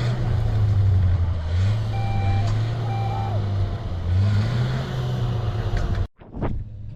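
A heavy vehicle's engine running with its pitch rising and falling as it works, and two short beeps of a reversing alarm a few seconds in. The engine sound cuts off suddenly about six seconds in.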